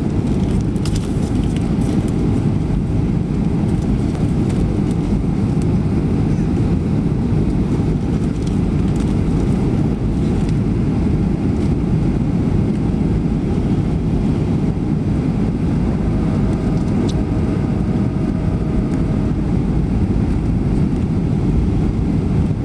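Airliner passenger-cabin noise in flight: a steady, even low rumble of engines and rushing air, with a faint steady tone joining in for a few seconds about two-thirds of the way through.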